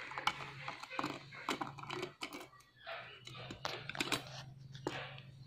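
Small irregular clicks and taps of a screwdriver and screws being worked on a hard disk drive's casing, over a faint steady low hum.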